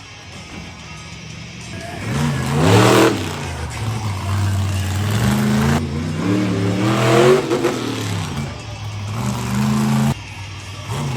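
Monster truck's supercharged V8 engine revving hard, climbing in pitch twice to peaks about three and seven seconds in and falling back between, then cutting off sharply near the end.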